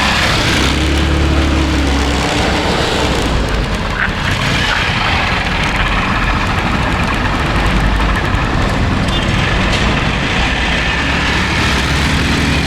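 Small motor scooter running while being ridden through traffic, its engine hum under a steady rush of wind and road noise.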